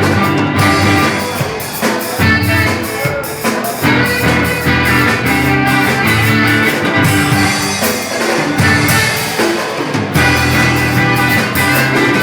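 Small worship band playing an upbeat song live, with drum kit, bass and saxophone.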